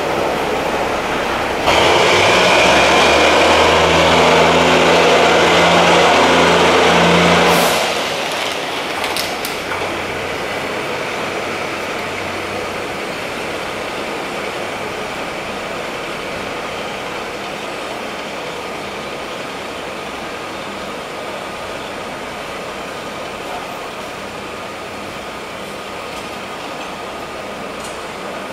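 Trains at a station: about two seconds in, a louder sound with a low steady drone starts suddenly and cuts off about six seconds later. Then comes the even running noise of a train pulling past the platform, slowly fading.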